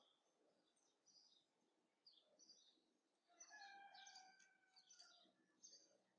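Very faint songbird chirps, with a short run of whistled notes about three to five seconds in; otherwise near silence.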